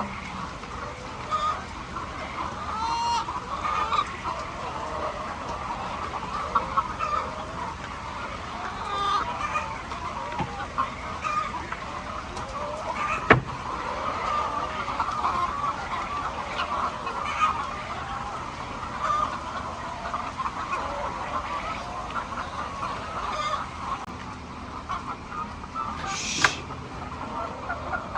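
A flock of laying hens clucking and calling all at once, a dense steady chatter of many overlapping calls. A single sharp click comes about halfway through, and a brief high squawk near the end.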